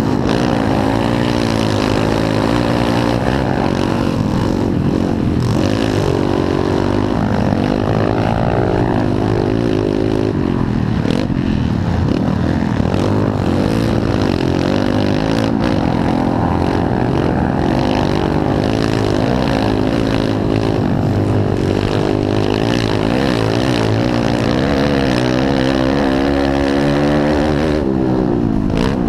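Several pit bike engines racing around a motocross track, their pitch repeatedly rising and falling as the riders rev up and back off, overlapping one another.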